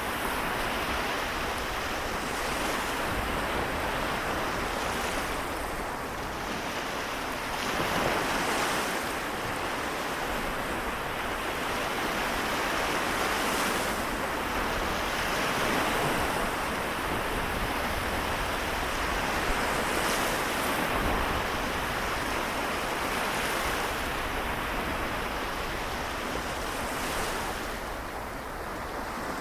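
Sea waves washing onto the shore, swelling and easing every few seconds, with a low rumble of wind on the microphone.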